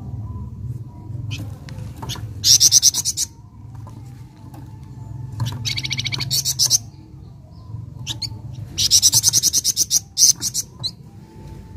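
Flamboyan songbird singing: three phrases of fast, rapidly repeated high notes, each about a second long, at about two and a half, five and a half and nine seconds in, with a few short chirps between, over a steady low hum.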